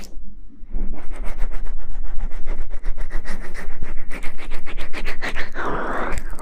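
Close-miked ASMR scratching and rubbing, of the kind used to mimic hair washing. After a short lull, rapid scratching strokes start about a second in, many a second. Near the end a broader rubbing swish follows.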